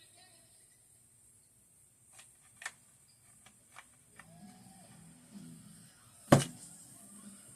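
Rifle parts being handled: a few light metallic clicks, then one loud sharp knock about six seconds in.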